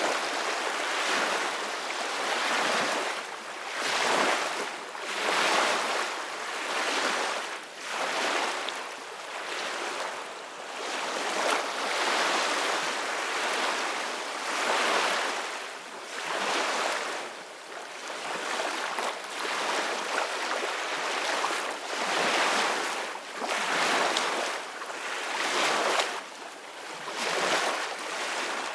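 Small ocean waves washing in one after another, the surf swelling and falling back about every one and a half seconds.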